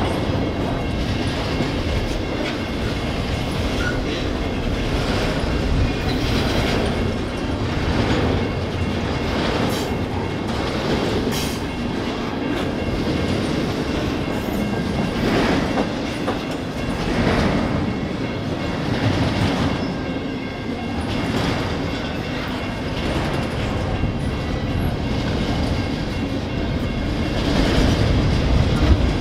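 Double-stack intermodal container train's well cars rolling past: a steady rumble of steel wheels on rail with clickety-clack over the joints, a little louder near the end.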